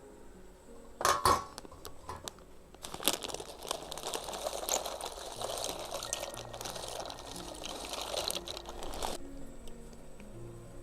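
A sharp clack about a second in, then liquid pouring steadily for about six seconds before stopping.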